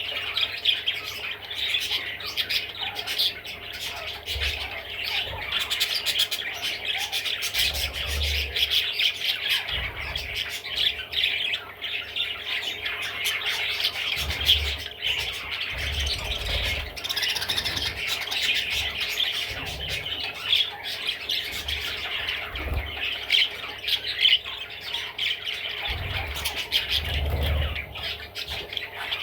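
Budgerigar chattering without a break, a dense stream of high chirps and clicks, with a few low thumps.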